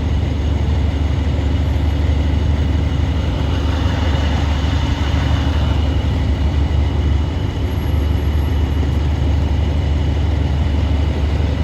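Steady low rumble of vehicle engines and road traffic, with a swell of passing-vehicle noise about four to six seconds in.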